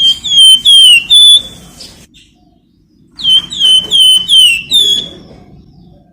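Flamboyan songbird giving loud, clear whistled notes, each sliding down in pitch. There are two quick phrases, four notes and then five, about two seconds apart.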